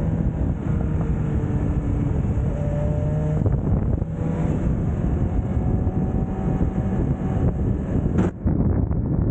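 Heavy wind rush on the microphone over a motorcycle engine at speed, its faint pitch rising and falling with the throttle. The sound drops out briefly about eight seconds in.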